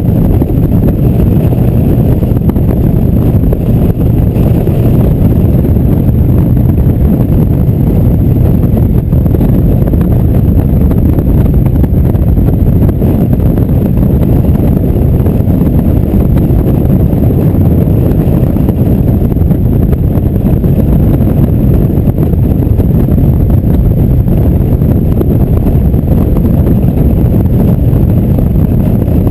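Loud, steady wind rushing over the microphone on a moving motorcycle, with the engine running underneath at an even cruising speed.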